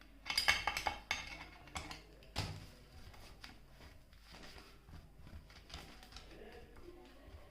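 Plastic parts of a diaphragm air pump clicking and rattling as they are handled and brushed free of dust: a quick run of clicks in the first second, a single knock a little later, then faint handling sounds.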